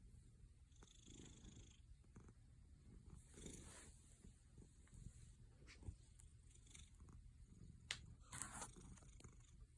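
Black cat purring softly, a low rumble that swells and fades with each breath. A few faint clicks and a brief rustle come in the second half.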